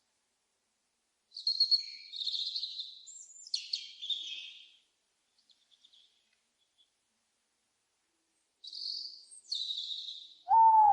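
Owl calls: two bouts of high, raspy screeching calls, then near the end a louder, clear call that falls in pitch.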